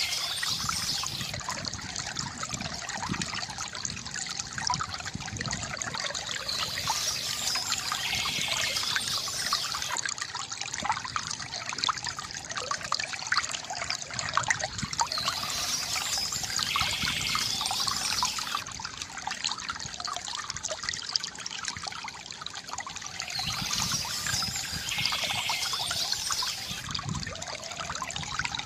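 Water trickling and gurgling from a bamboo fountain in a steady flow. A brighter splashing patch recurs about every eight seconds.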